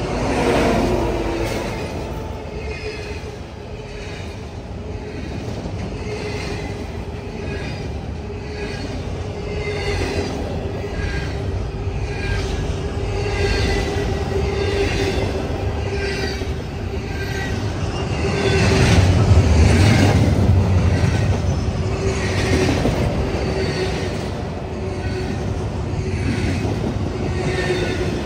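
Double-stack intermodal freight train rolling past at close range: a steady rumble of steel wheels on rail with a sustained wheel squeal. A louder, deeper swell of rumble comes about two-thirds of the way in.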